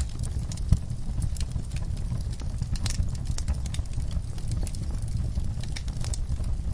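Wood fire burning in a fireplace: irregular crackles and pops over a steady low rumble, with one sharper pop about three-quarters of a second in.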